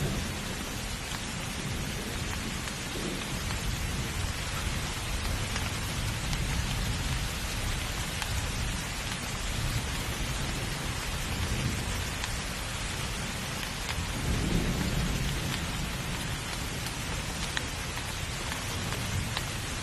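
Rainstorm: heavy rain falling steadily, with low rolling thunder rumbling underneath and swelling once about three quarters of the way through.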